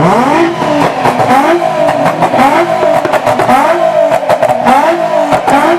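Car engine revved hard: the pitch climbs steeply in the first half-second, then holds high with a repeated rise-and-fall wavering in the note.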